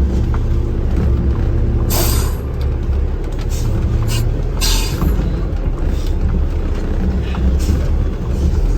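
Truck engine running with a steady low rumble inside the cab as it drives on snowy roads, with several short hisses, the strongest about two and five seconds in.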